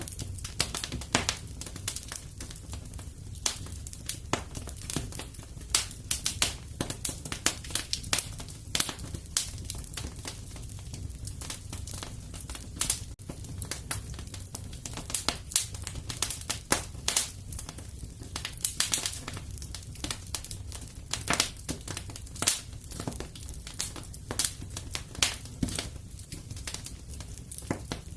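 Wood fire in a fireplace crackling, with sharp irregular pops several times a second over a steady low rumble.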